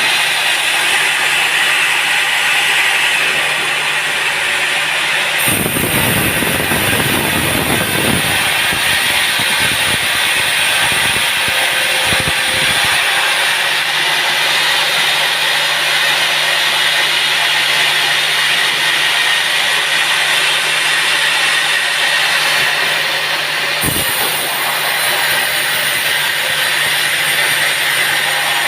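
Teak logs being sawn at a sawmill: loud, steady machine and saw noise over a constant low hum, with heavier low rumbling from about six to thirteen seconds in.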